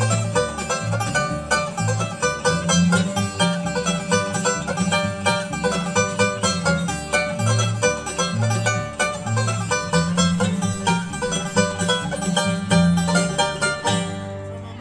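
Live bluegrass band playing an instrumental passage of plucked strings over an alternating bass line, coming to the song's end near the close.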